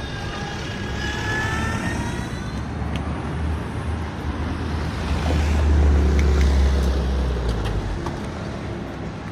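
A vehicle passing close by with a low rumble that builds to a peak about six seconds in and then fades, amid city traffic noise. A high squeal sounds in the first couple of seconds.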